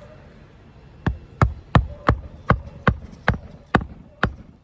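Hammer driving a roofing nail into a replacement shingle: nine sharp strikes, starting about a second in, at roughly three a second and slowing a little toward the end. The nail is being set gently because the surrounding shingles are brittle.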